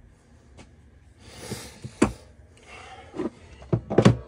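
Workbench handling noises: a series of sharp knocks and clatters of tools and parts being picked up and set down, the loudest about two seconds in and near the end, with a brief hiss-like scrape in between.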